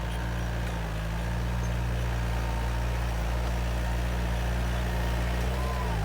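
Bulldozer's diesel engine running steadily at high revs, its pitch dropping briefly near the end.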